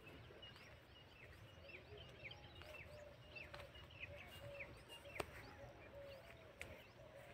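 Faint birds chirping, with short high downward chirps repeating about twice a second over a lower, steadily repeated call. A single sharp click about five seconds in.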